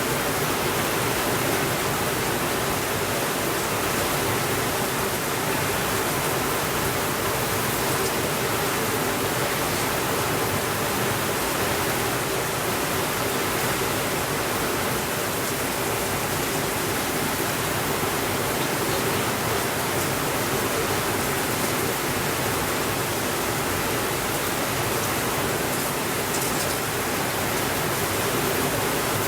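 Steady rainfall: an even, unbroken hiss with no changes in level.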